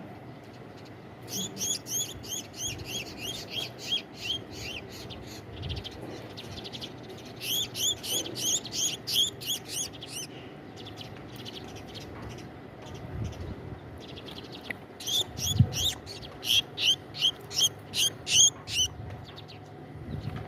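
House sparrow chick chirping in rapid, repeated calls, about four a second, in three bouts: distress calls from a chick caught in rope.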